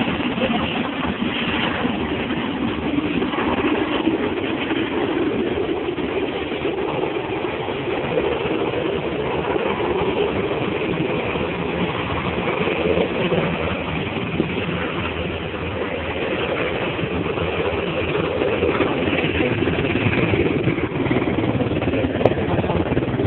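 Helicopter running, a steady engine and rotor noise with a sharp click near the end.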